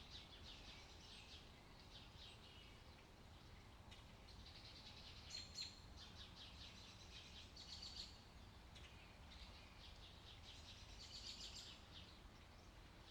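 Faint birds chirping: bursts of quick, high trilled chirps every second or two, over a low steady hum.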